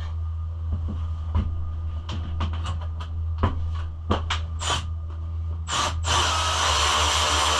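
A series of sharp clicks and knocks from plastic body panels being handled and fitted onto a pit bike. About six seconds in, a steady hissing power-tool noise starts and keeps running, over a steady low hum.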